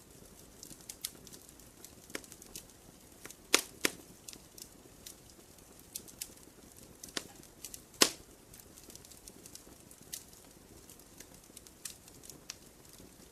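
Wood campfire crackling, with irregular sharp pops over a low steady hiss. The loudest pops come about three and a half seconds in and again at about eight seconds.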